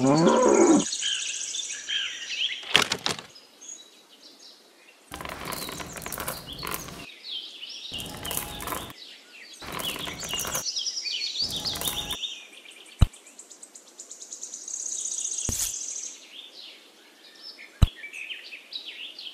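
Small birds chirping and trilling, with several bursts of noise partway through and three sharp clicks or taps near the end.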